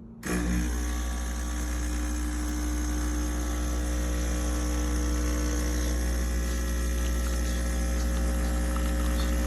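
De'Longhi Stilosa espresso machine's vibration pump switching on about a third of a second in and running with a steady hum, pushing water through the portafilter at the start of a two-shot brew.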